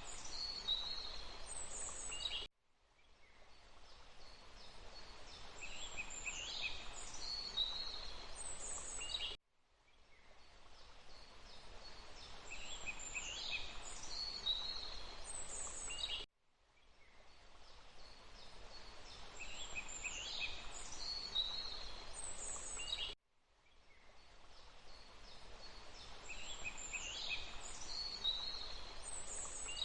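Birds chirping high over a steady rushing hiss, in a short recording looped about every seven seconds. Each repeat cuts off abruptly, fades back in, and ends with a cluster of chirps.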